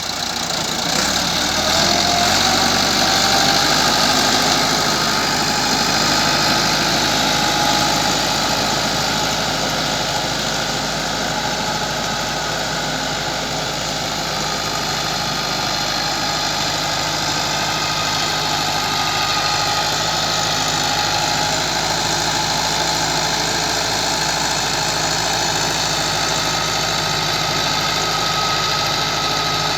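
Massey Ferguson MF 385 tractor's four-cylinder diesel engine, rising in the first couple of seconds and then running steadily.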